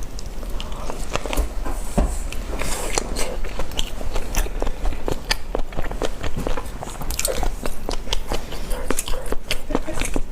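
A boy biting and chewing crunchy food, with many sharp, irregular crunches.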